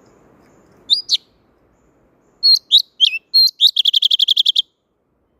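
Thanh tước songbird calling: two sharp whistled notes, a pause, then a run of quick notes that breaks into a fast, even trill of about a dozen notes and stops abruptly.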